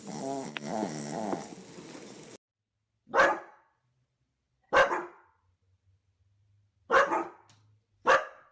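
A dog barks four loud, single barks, each a second or more apart. Before them, for about two seconds, there is a wavering, pitched growl-like vocal sound that cuts off suddenly.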